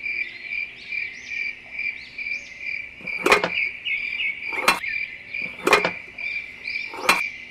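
Cricket chirping steadily, about two chirps a second, with four sharp clicks in the second half as a toy cage wheel is handled.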